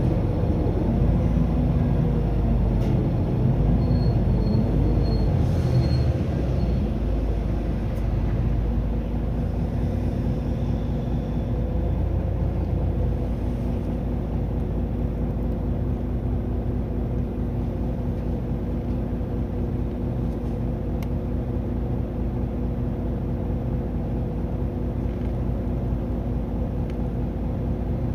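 Diesel engine and running noise of a Mitsubishi Fuso Aero Star city bus (LKG-MP37FKF) on the move. The engine pitch rises and falls through gear changes in the first few seconds, then settles into a steady drone.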